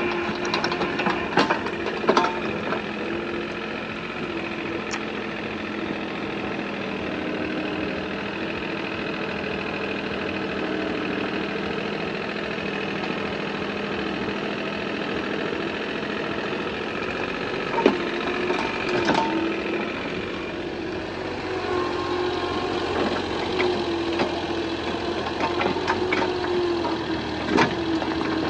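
An engine running steadily for the whole stretch, with its pitch wavering slightly. A few sharp knocks or clanks come near the start, about two-thirds of the way through and near the end.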